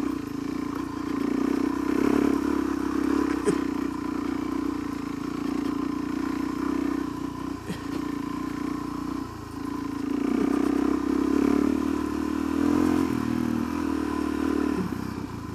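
Suzuki DR-Z400SM single-cylinder motorcycle engine running steadily under throttle while riding. It pulls a little harder about ten seconds in, then eases off and drops away near the end.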